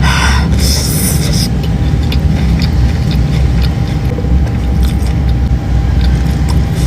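Crunchy bite into a fried Korean mozzarella corn dog, followed by chewing with small clicks, over a loud steady low rumble.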